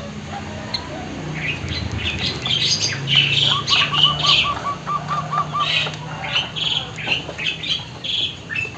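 White-headed munia (emprit haji) singing: a busy jumble of high chirps and squeaky notes, with a quick run of about eight short repeated notes in the middle.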